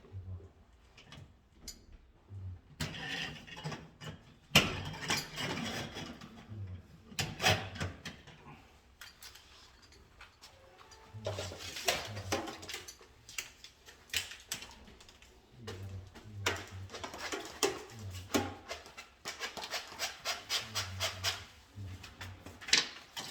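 Hand wiring work with small tools: irregular clicking, rubbing and light knocking as parts and wires are handled, with a sharp knock about four and a half seconds in.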